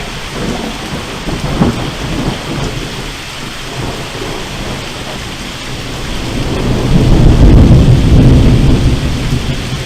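Steady rain falling, with a long low rumble of thunder that swells about six seconds in, is loudest a second or two later, then eases off.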